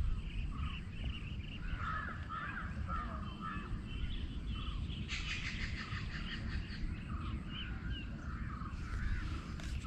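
Birds chirping and calling, many short calls overlapping, over a steady low rumble.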